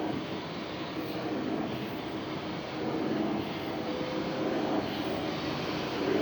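Samsung Pet Care Edition vacuum cleaner running steadily, its motor giving a constant whooshing hum.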